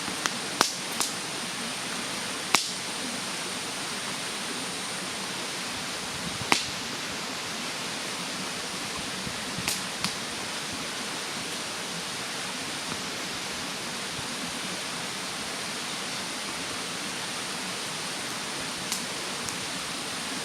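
Wood fire burning in a fire stand, giving sharp crackling pops: several close together in the first few seconds, then single pops about 6.5 and 10 seconds in and a faint one near the end. Under them a steady rushing noise from a mountain stream.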